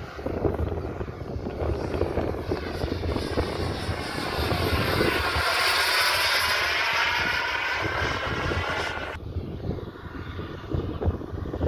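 Small propeller airplane's engine droning as it flies past, growing loudest about six seconds in with its pitch rising and then falling. A hiss under it stops abruptly about nine seconds in.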